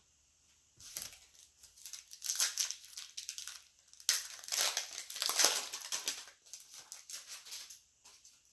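Plastic wrapping crinkling and tearing as a box of basketball trading cards is unwrapped and opened, an irregular crackle with louder stretches.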